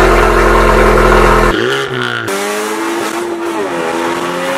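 Honda Civic Type R's turbocharged four-cylinder engine, loud and steady for the first second and a half, then heard from inside the cabin while accelerating through the gears: the engine note dips and climbs again at each shift.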